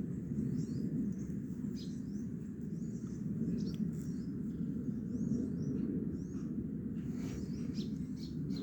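Small birds chirping repeatedly in quick, short high notes over a steady low rumble.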